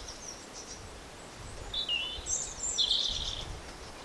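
Small birds chirping in the background: a short run of quick, wavering chirps about halfway through, over a low steady background rumble.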